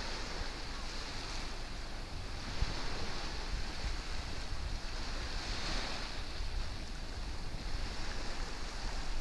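Ocean surf washing onto a beach, the hiss of the waves swelling near the start and again about five seconds in. Wind rumbles on the microphone underneath.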